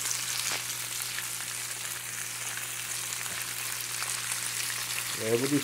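Potato slices, onion and salmon frying in oil in a fry pan: a steady sizzle with fine crackles.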